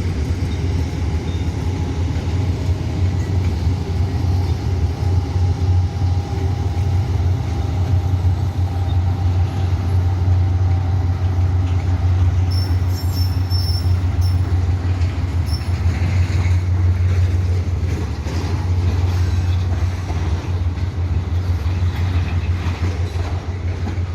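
Freight train of tank wagons rolling past: a steady low rumble with wheel clatter, and a brief high wheel squeal about halfway through.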